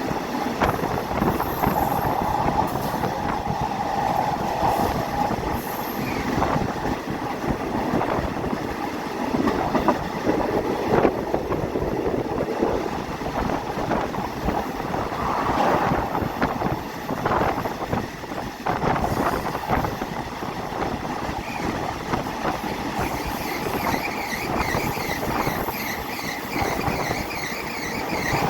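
Passenger train running on the line: a steady rumble with irregular clatter and knocks from the wheels on the track, and wheel squeal rising near the end.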